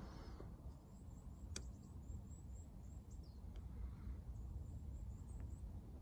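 Quiet woodland ambience: faint, very high-pitched bird chirps over a low rumble, with a single sharp click about one and a half seconds in.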